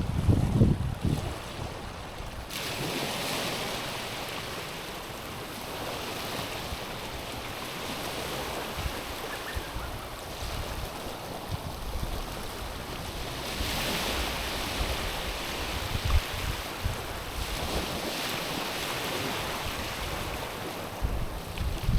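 Small sea waves lapping against a stony, pebbly shore, the wash swelling and ebbing every few seconds. Wind buffets the microphone in the first second.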